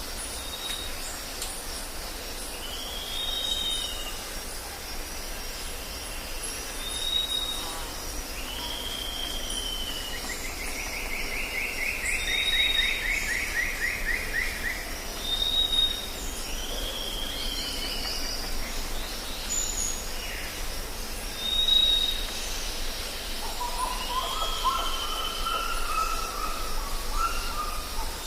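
Several birds calling in a tropical forest: a short high whistle repeated about every three seconds, down-slurred whistled calls, a rapid buzzy trill lasting a few seconds about a third of the way in, and a lower warbling phrase near the end. A steady low rumble runs underneath.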